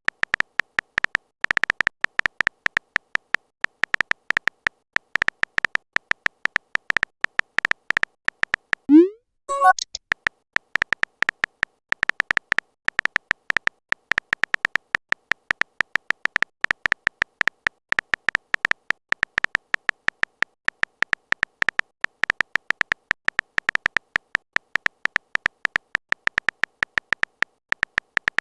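Rapid, irregular short electronic beeps, all at one high pitch, a typing sound effect for text messages. About nine seconds in, the beeps stop briefly for a short rising swoop sound.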